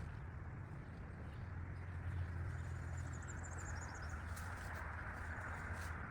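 A brief, faint bird trill about three seconds in, over a steady low rumble.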